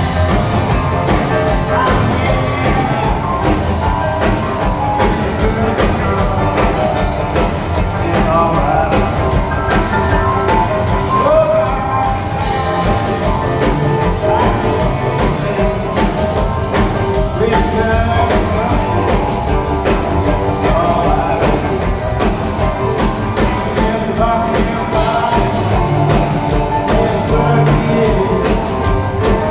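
Live rock and roll band playing through amplifiers, led by electric guitar, with a steady beat underneath.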